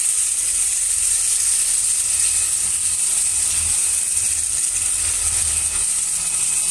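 Alfawise FJ166A vacuum cleaner running with its main brush, a steady high whine over a rattling crackle as rice grains are sucked up off the floor.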